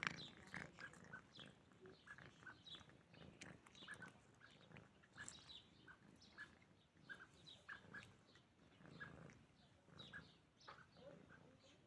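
A cat chewing and smacking as it eats cheese: faint, short wet clicks a couple of times a second.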